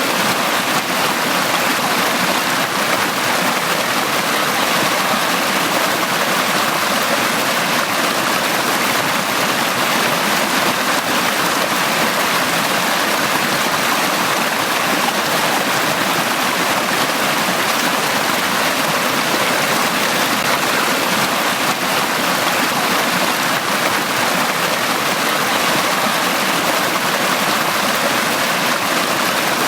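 A valley stream flowing: a steady, even rush of running water that never pauses or changes.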